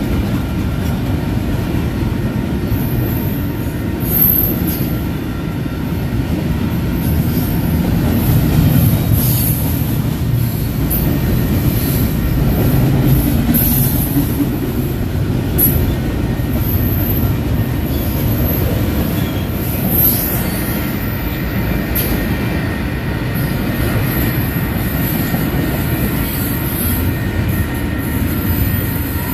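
Double-stack intermodal well cars rolling past: a steady rumble of steel wheels on rail, with short high-pitched wheel squeals coming and going.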